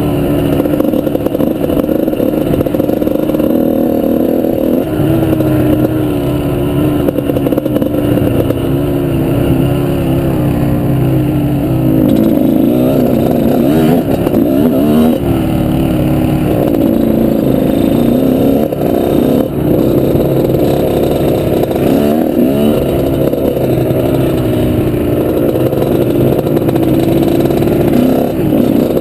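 Off-road motorbike engine running under load, its pitch rising and falling again and again as the throttle opens and closes.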